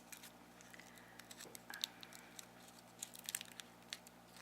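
Scattered soft clicks and crackles close to the microphone, from hard candy being eaten.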